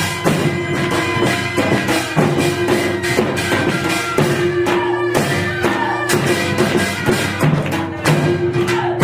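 Korean traditional music for the Jindo drum dance: frequent drum strikes in a driving rhythm over a held melody line whose notes slide in pitch.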